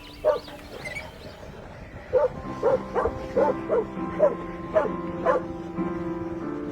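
A dog barking in short, sharp barks, about two a second, over background music with sustained notes.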